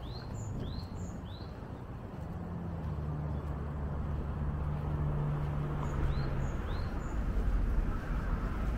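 A small bird calls with short, downward-sweeping chirps: three near the start and two more about six seconds in. Under them a low traffic rumble with an engine hum builds from about two seconds in and grows louder toward the end.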